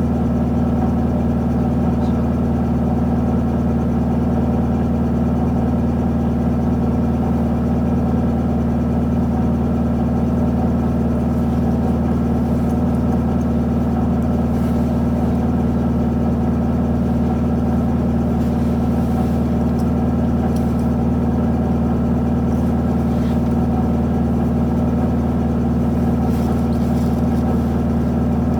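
Isuzu Erga city bus's four-cylinder diesel engine running steadily at one engine speed, heard from inside the passenger cabin, with an even low hum and no revving.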